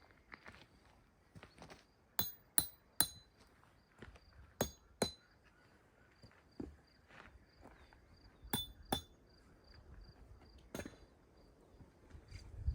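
Sharp, ringing clinks of small hard objects knocked together, mostly in pairs about half a second apart, with softer knocks and rustling between them.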